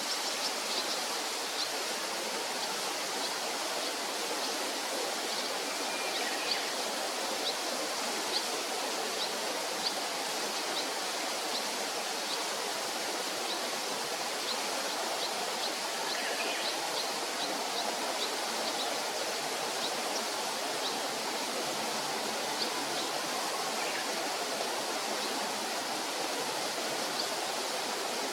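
A steady rushing noise, with many short, high chirps from barn swallows scattered through it.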